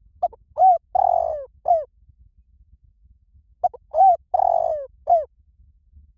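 Spotted dove cooing: two matching phrases a few seconds apart. Each phrase is four coos, a short note, a rising-falling coo, a longer drawn coo and a short final coo.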